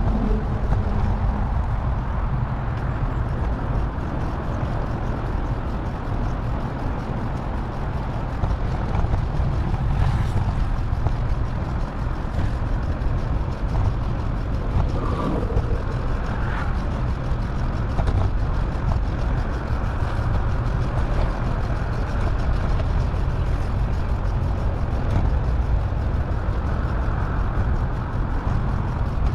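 Steady rumbling noise of a bicycle ride: wind buffeting the microphone, mixed with road and traffic noise.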